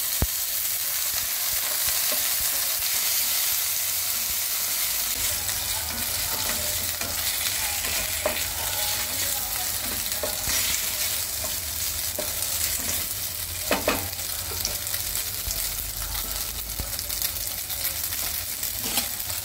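Paneer cubes and boiled macaroni sizzling in ghee in a nonstick frying pan, a steady frying hiss, with a wooden spatula stirring and scraping the pan a few times.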